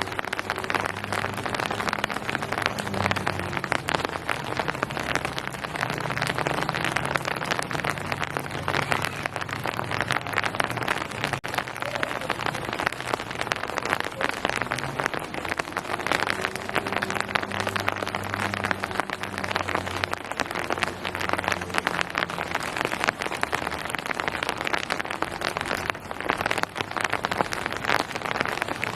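Steady rain falling, a dense patter of drops on surfaces. A low hum sits underneath, fading in and out.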